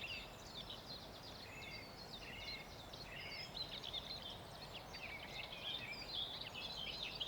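Dawn chorus: many small birds singing over one another, a steady stream of quick chirps and trills, over a faint background hiss.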